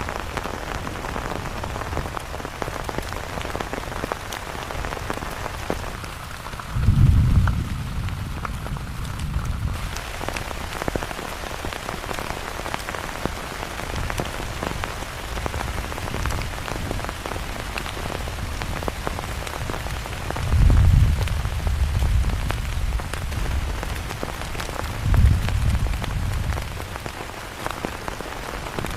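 Heavy rain falling steadily, with many separate drop hits. Three times, about a quarter, two-thirds and five-sixths of the way through, a low rumble swells up for a second or two.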